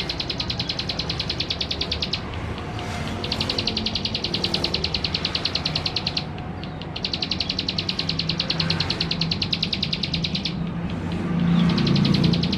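Male plain prinia (ciblek sawah) singing: long runs of very rapid, evenly repeated high notes, broken by short pauses about two, six and ten seconds in. A steady low hum lies underneath.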